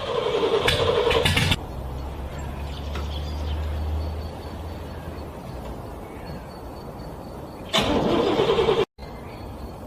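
Car engine cranked by its starter in freezing cold, struggling to start: a short burst of cranking, then a low rumble that fades. About eight seconds in, a second brief crank cuts off suddenly.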